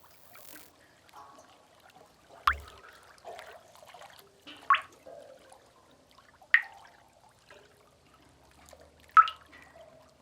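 Water drops plinking into a pool in a sea cave: four loud, sharp drips roughly two seconds apart, over a faint trickle of water.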